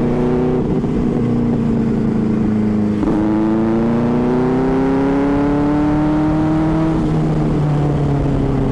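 Superbike engine running under way, its pitch steady at first, dropping at a gear change about three seconds in, then climbing for about four seconds as the bike accelerates before easing down again.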